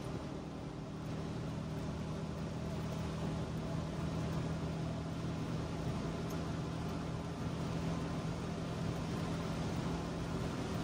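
Trabant 601's two-cylinder two-stroke engine running at a steady pitch while driving, heard from inside the small cabin over a steady bed of road and rain noise.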